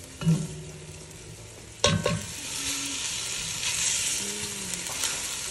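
Diced onions sizzling in hot oil in an enamelled pot as a silicone spatula stirs them. There are two knocks, one about a third of a second in and a sharper one just under two seconds in, after which the sizzle grows louder.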